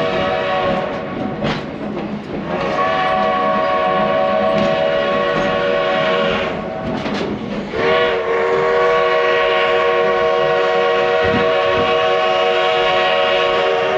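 Steam locomotive's chime whistle blowing a chord of several tones held steady. One blast ends about a second in, a long blast of about four seconds follows, and after a short gap a final blast of about six seconds scoops up in pitch as it opens.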